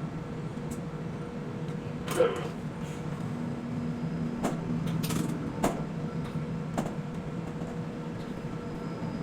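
Quay container crane machinery running with a steady low hum and faint whine, with several short sharp clicks and knocks spread through it.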